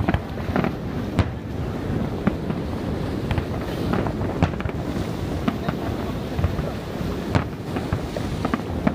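Fireworks display: scattered sharp bangs and cracks at irregular intervals, the loudest one a little past seven seconds in, over a steady rushing background noise.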